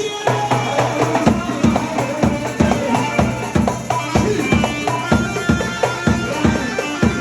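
Arabic party band playing an instrumental passage: a steady, driving drum beat under a held melody line.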